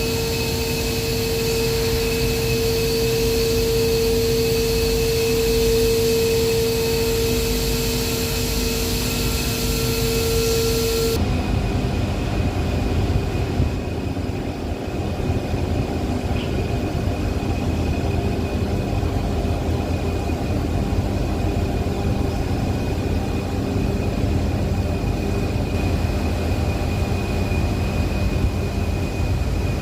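Loud, steady industrial machine noise: a strong steady whine over a hiss for about eleven seconds, then an abrupt change to a deeper rumbling machine noise with a faint high whine.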